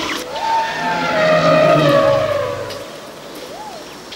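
Wild-bush ambience: a bird's short rising-and-falling whistle repeated about every second and a half, over a louder drawn-out sound with a steady pitch that swells and fades within the first three seconds.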